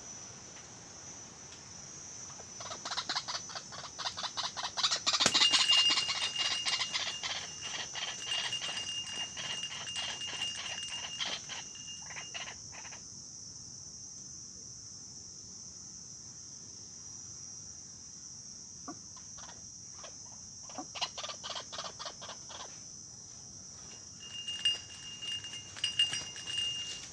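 Bird calls in rapid repeated pulses, in two long bouts, fitting a white-breasted waterhen calling. A steady high chorus of crickets runs under them.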